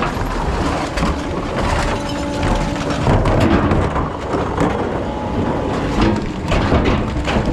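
Rear-loader recycling truck working: heavy rumbling and crackling noise, with a steady hum that comes in briefly and returns near the end.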